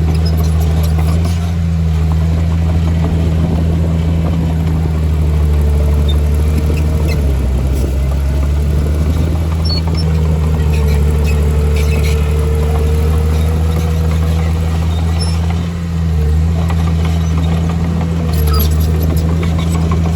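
Heavy diesel engine of earthmoving equipment running steadily, with a wavering whine that comes and goes over the deep engine note and scattered small clicks and knocks.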